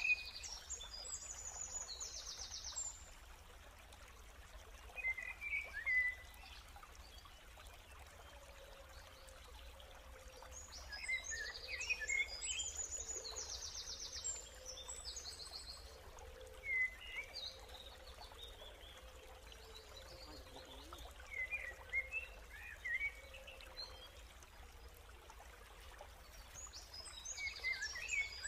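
Wild forest birds calling: clusters of short chirps and, several times, a fast high trill. These sound over faint steady background noise.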